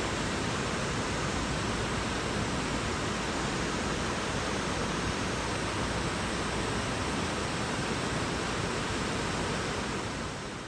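Steady rushing noise, even and unbroken, fading out near the end.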